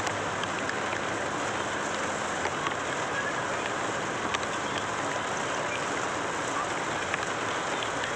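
Steady rain falling, an even hiss with scattered sharp ticks of drops hitting surfaces.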